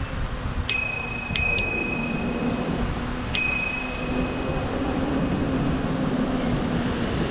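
Bicycle bell rung four times: once, then a quick double, then once more about two and a half seconds later, each ring fading out. Steady wind and road noise run underneath.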